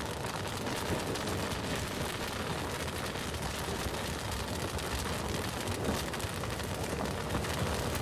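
Wood bonfire burning: a steady stream of many small crackles and pops over a low rumble of flame.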